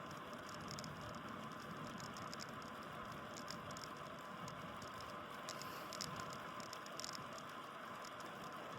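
Steady hiss of a bicycle rolling along the road, heard through a phone mounted on the bike, with scattered light ticks and rattles.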